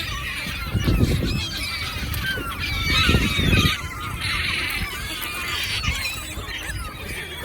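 A flock of birds calling over one another throughout, a dense chatter of short squawks that bend up and down in pitch. There are bursts of low rumble about a second in and again around three seconds in.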